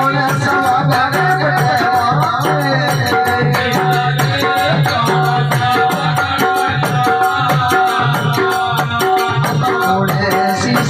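Live Rajasthani folk bhajan music: a steady, fast rhythm of jingling shaken percussion over sustained melodic tones and a pulsing low drum part, with no words sung.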